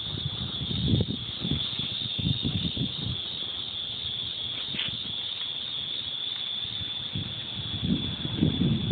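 A continuous, steady high-pitched whine of unknown source, with low rumbling knocks and wind-like buffeting on the microphone underneath.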